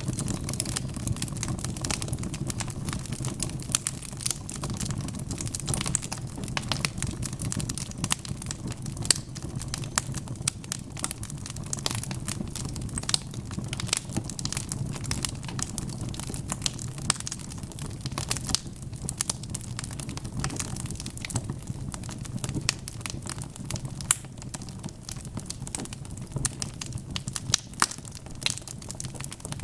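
Wood fire burning in a fireplace: dense, irregular crackles and pops from the logs over a steady low rumble of the flames.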